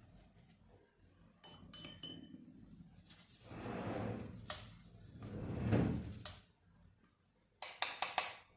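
Painting-kit clatter: a few light clinks, two longer swishing rubs, then a quick run of bright ringing clinks near the end, like a paintbrush tapped against a hard container.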